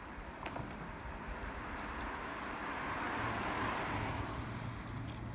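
A vehicle passing by: tyre and road noise builds up, peaks about three and a half seconds in, then fades, with a low hum underneath.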